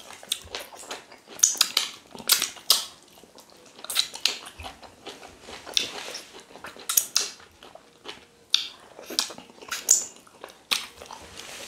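Two people chewing fufu and ogbono soup eaten by hand, with irregular mouth smacks and clicks throughout.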